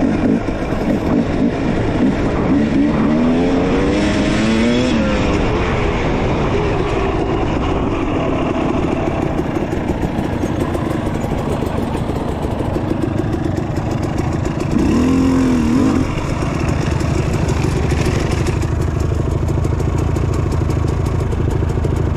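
Dirt bike engine running, revving up a few seconds in and again briefly about two-thirds of the way through.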